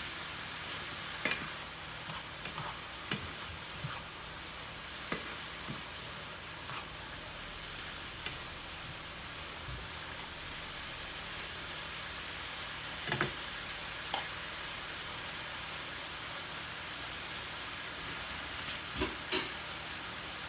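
Food frying in butter in a pan, sizzling steadily, with short sharp knocks of a utensil against the pan every few seconds as it is stirred.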